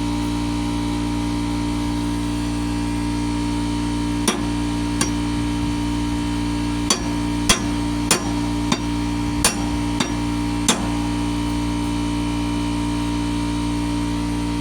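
A steel lawnmower blade being struck against a socket that is stuck on a mower-deck blade bolt, to knock it loose: about nine sharp metal taps at uneven intervals. A steady hum runs underneath.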